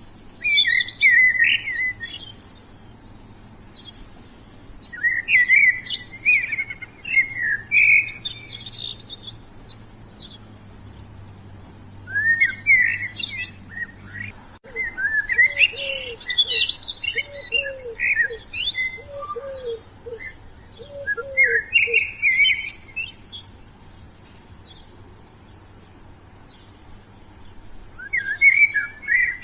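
Wild songbirds singing in bursts of quick, varied chirping phrases every few seconds. Through the middle, a lower note repeats about once a second beneath the song.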